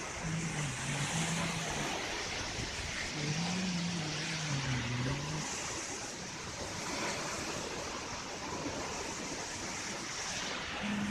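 Waterfall rushing with a steady roar of falling water. A low wavering tone comes in twice during the first half.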